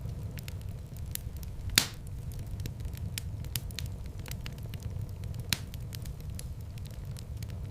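Wood fire in a fireplace crackling, with many small clicks over a low steady rumble of the flames. There are two louder pops, one about two seconds in and one past the middle.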